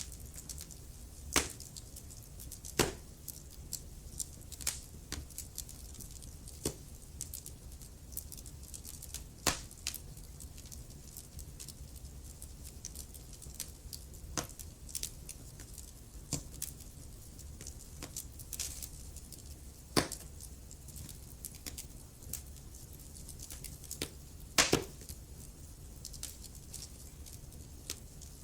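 Wood fire crackling in a fireplace: sharp pops at irregular intervals, a few of them much louder, over a low steady rumble.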